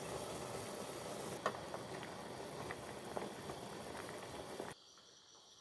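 Food sizzling and bubbling in a hot pot: a steady hiss with scattered small pops. It cuts off abruptly near the end, leaving insects chirping softly.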